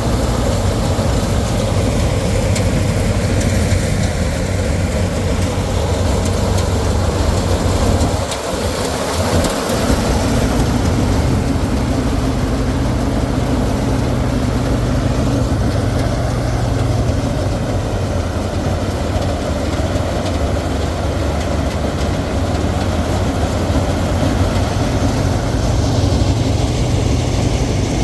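Combine harvester running steadily in a rice field, a loud continuous engine drone with dense mechanical noise over it, easing briefly about eight seconds in.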